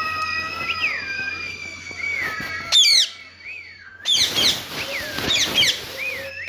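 Pet parrot whistling held notes and swooping glides, with a loud, shrill call about three seconds in and another a second later.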